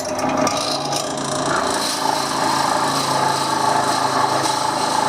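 Wood lathe running while a hand-held drill bit bores into the centre of the spinning wooden blank: a continuous scraping, rubbing cut over the steady hum of the lathe motor.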